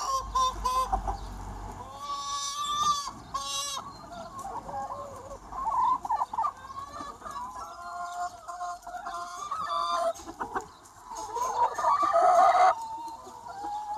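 A large free-range chicken flock: many hens clucking and calling over one another, with a louder drawn-out call near the end that cuts off suddenly.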